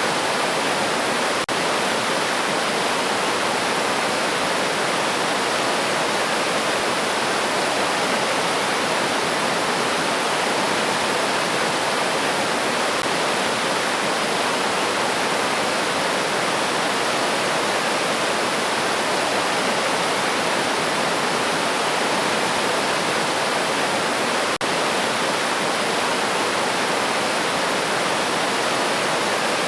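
River stream water rushing steadily, an even, unchanging wash of flowing water.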